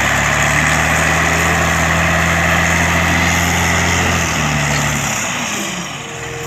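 Vehicle engine idling steadily: a low, even hum with hiss above it that starts abruptly. The low hum fades out about four to five seconds in, leaving mostly the hiss.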